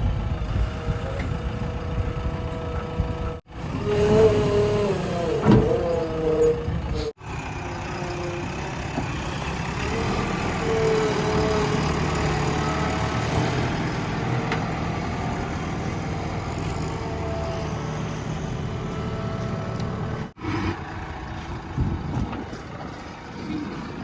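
Diesel engines of a backhoe loader and trucks running at a mud-loading site, with the engine pitch rising and falling under load. The sound is cut together from several short clips, breaking off abruptly a few times.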